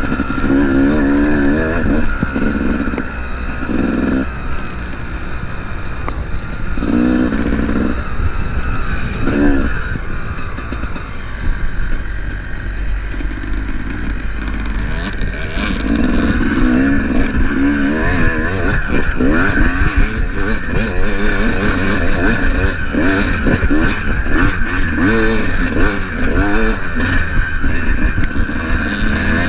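Dirt bike engine running close-up under varying throttle, its pitch rising and falling again and again as the rider opens and closes the throttle along a rough trail.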